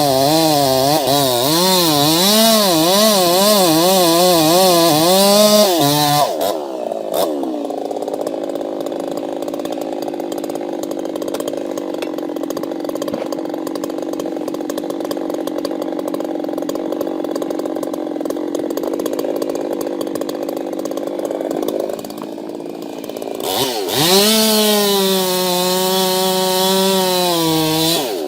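Chainsaw running at high revs, its pitch wavering up and down as it works. After about six seconds it gives way to a quieter, steadier drone, and a few seconds before the end a chainsaw runs at high revs again, then cuts off.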